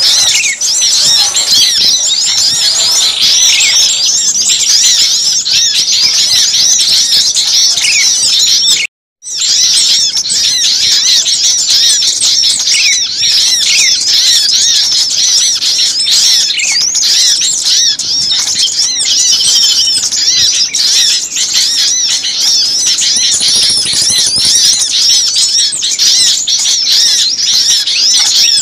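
A dense, loud chorus of many small songbirds chirping and calling over one another in a frantic, excited din. It is a bird-trapping lure recording of agitated small birds, the kind played to draw others in. The sound cuts out completely for a split second about nine seconds in.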